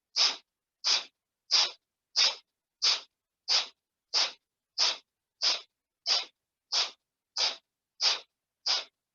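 Kapalbhati breathing: short, forceful exhales puffed out through the nose at an even pace, about three every two seconds, each inhale coming passively and silently between them.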